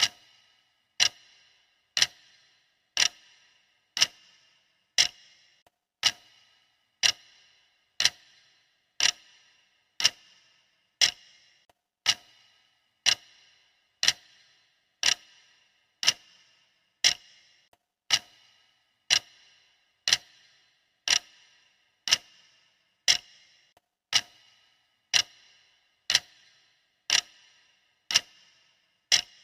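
Clock ticking steadily, one sharp tick a second, each with a brief ringing tail.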